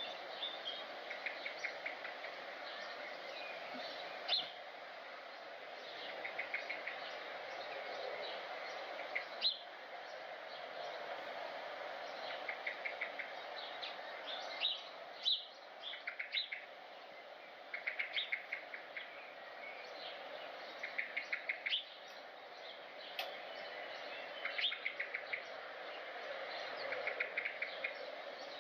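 Birds calling: short trains of quick repeated notes, about ten a second and each about a second long, come every two to three seconds, with sharper single chirps in between. A steady background noise runs underneath.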